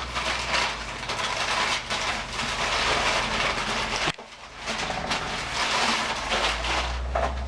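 Wrapping being pulled off and handled: a dense crinkling and rustling with many small crackles, which stops briefly about four seconds in, then carries on.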